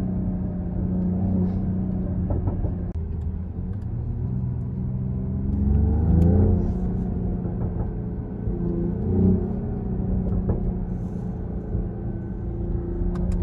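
Mercedes-AMG GLE 53's turbocharged 3.0-litre inline-six running under way, with a rise in revs about halfway through as the car accelerates, then settling back to a steady drone.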